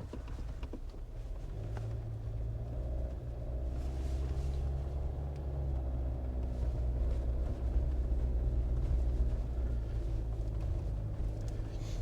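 Jeep driving, heard from inside the cabin: a steady low engine and road rumble that grows somewhat louder partway through.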